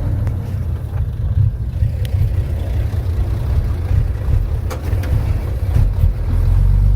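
Heavy diesel earthmoving machinery running, a deep steady rumble, with a few faint knocks in the second half.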